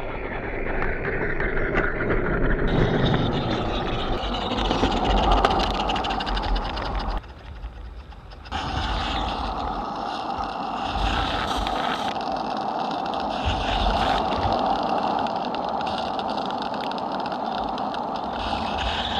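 Small live-steam garden locomotive, a coal- or gas-fired Accucraft Emma rebuilt as a Maine two-foot Forney, hissing steam steadily. The sound drops away for about a second, around seven seconds in, then resumes.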